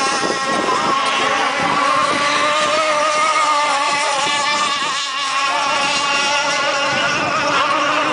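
Radio-controlled GX1 rigger boats racing, their small two-stroke gasoline engines running at a steady high-pitched whine, several engines sounding at once at slightly different pitches that waver a little as the boats run the course.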